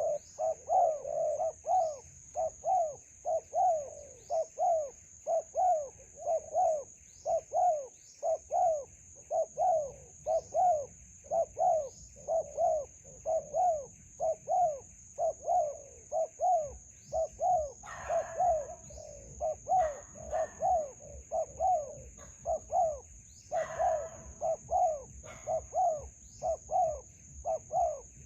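Spotted doves cooing: a long, even run of short repeated coos, about two a second, with a few short high chirps from small birds. A steady high hiss sits behind it, and there are two brief rustling bursts in the second half.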